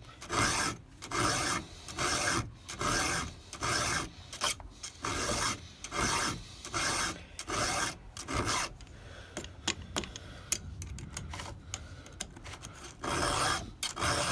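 Hand file rasping across the cutting teeth of a Stihl 200T saw chain, about three strokes every two seconds. The strokes stop for a few seconds past the middle, where there are small clicks and taps, and resume near the end.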